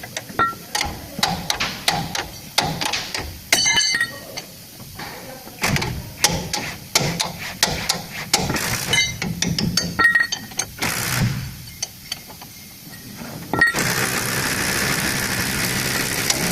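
Irregular hammer blows and metal-on-metal clinks of tools working on a truck torque rod during bushing replacement. About three-quarters of the way through, a steady, loud mechanical noise starts and runs on under the knocks.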